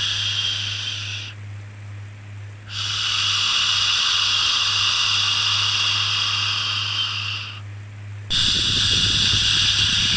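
Shushing 'shhh' sound for soothing a baby: long steady hisses that pause twice, about a second in and near eight seconds, over a steady low hum.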